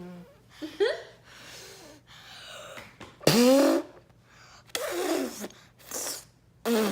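People blowing air out through pursed lips to imitate an elephant's trumpet: about five short, sputtering, pitch-sliding blasts, the loudest a little past the middle with a sharp rise in pitch.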